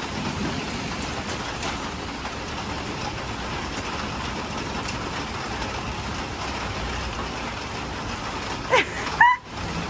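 Steady rain falling hard on pavement. Near the end there are a few short, high-pitched cries that bend in pitch, louder than the rain.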